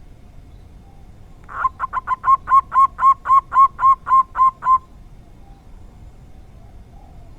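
Zebra dove (perkutut) cooing: a quick run of about a dozen notes, about four a second, starting about a second and a half in and stopping after about three seconds.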